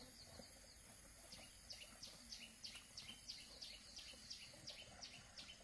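Faint bird call repeated as a steady series of short, high, downward-sliding notes, about three a second, growing clearer about a second in.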